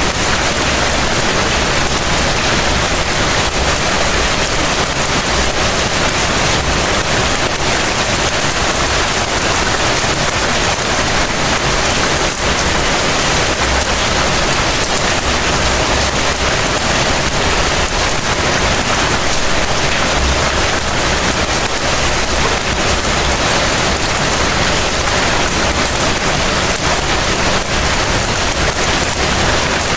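Heavy rain falling steadily, a dense even hiss of drops with a low rumble underneath.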